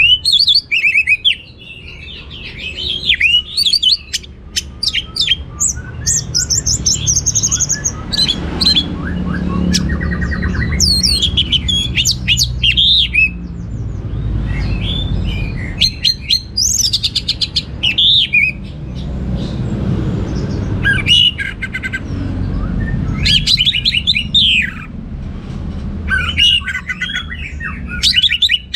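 Orange-headed thrush (anis merah) singing a varied song of quick chirps, trills and whistles, delivered in clusters with short pauses between them, over a steady low rumble.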